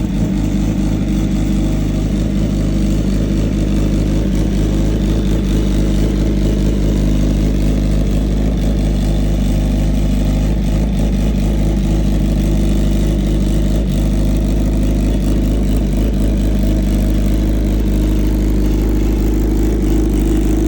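Suzuki GSX-R1000 inline-four engine idling steadily after a cold start.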